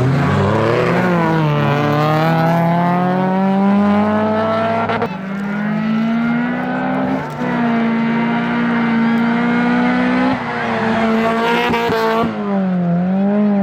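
Peugeot 206 hillclimb car accelerating hard. The engine revs climb and drop sharply at gear changes, about three times, then dip briefly and pick up again near the end.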